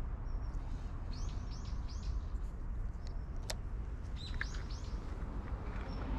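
A small bird calling: two runs of three quick arching chirps, about a second in and again just past four seconds, with a few short thin whistles between. Under it a steady low rumble, and one sharp click near the middle.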